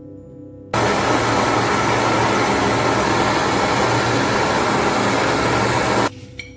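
Loud, steady rushing hiss from a workshop tool, like compressed air or an abrasive blaster. It starts abruptly about a second in and cuts off sharply near the end, with soft ambient music before and after.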